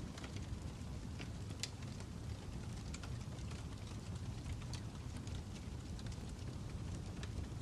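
Fire crackling: a steady low rumble of burning with scattered sharp pops and snaps at irregular intervals.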